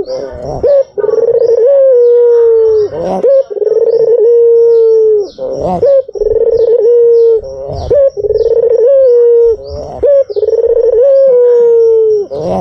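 White puter (domestic ringneck dove) cooing: about five long, loud coos, each held for a second or two on a steady pitch that dips slightly at the end, with short rough notes between them. Short high chirps repeat faintly above throughout.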